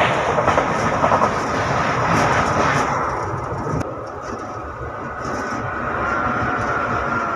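Running noise of a moving train, wheels rumbling over the rails, with another train passing close on the next track for the first few seconds; the noise eases after about three seconds, leaving a steady rumble with a faint high whine.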